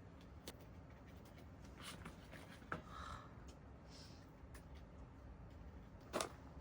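Faint scattered clicks and light scraping, with one sharper knock about six seconds in.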